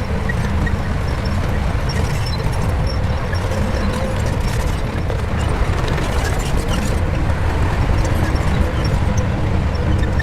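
Shantui crawler bulldozer's diesel engine running steadily under load, with scattered clicks and knocks.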